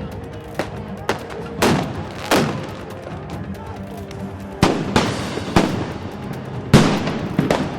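A string of about nine loud blasts at uneven intervals, like firecrackers or stun grenades, the biggest ones trailing off with a rumble, over a steady background music bed.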